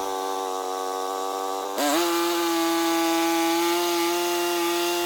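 Portable band sawmill running, its engine note steady while the band blade saws through a log. About two seconds in the sound shifts pitch and gets louder with more hiss, as the blade's load changes in the cut.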